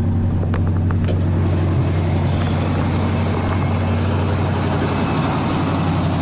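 1986 Chevy K-10's carbureted engine idling steadily, its revs pulled down a little by the electrical draw of the auxiliary lights that have just been switched on. A few light clicks sound within the first second or so.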